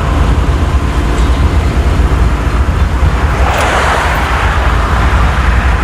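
Road vehicle noise: a steady low rumble with a louder rushing swell about three and a half seconds in.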